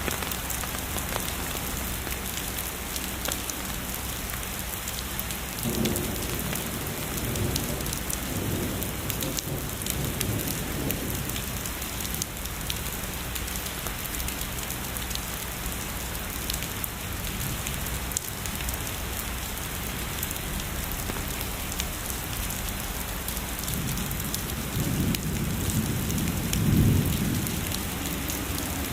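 Steady heavy rain falling, with distant thunder rumbling low twice: once a few seconds in and again, louder, near the end.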